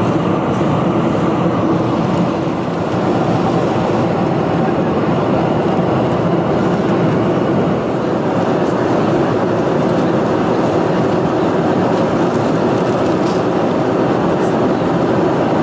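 Steady cabin noise inside a Boeing 747-400 in the climb after takeoff: an even rush of engine and airflow noise with a low hum running through it.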